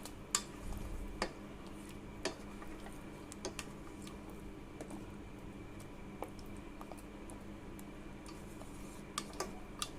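A few scattered light clicks and taps of a spoon against the pan as the kabab gravy is stirred, with a small cluster near the end, over a faint steady hum.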